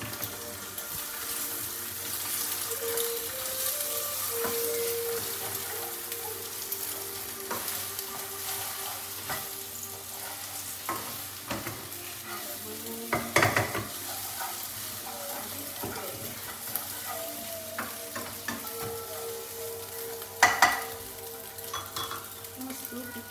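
Beaten eggs sizzling as they fry in a wok while a spatula stirs and scrapes them, with many small knocks. There are two louder clanks of the spatula against the wok, about halfway through and near the end.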